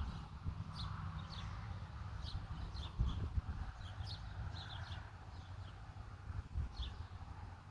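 Small birds chirping: short, high, falling chirps scattered irregularly over a steady low rumble, with a couple of dull bumps about three seconds in.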